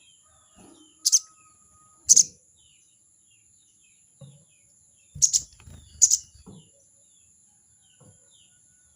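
Crested jay (sogon) giving short, harsh rattling 'crecet' calls, four loud ones in two pairs, the calls it uses to challenge a rival. A steady high whine runs underneath.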